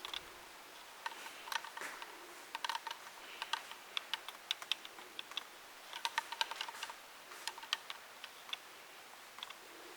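Irregular runs of light, sharp clicks and ticks, in loose clusters of several at a time with short gaps between, over faint background hiss.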